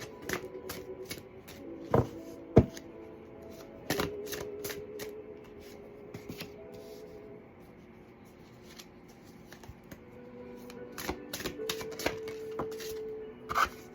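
Tarot cards being shuffled and laid out on a table: irregular sharp clicks and slaps, a few of them louder, over soft background music with held notes.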